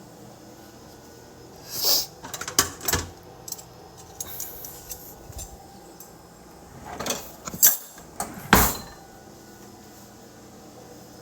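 Short knocks, clicks and rustles of objects being handled, in two clusters about two and seven seconds in, the last one a heavier knock.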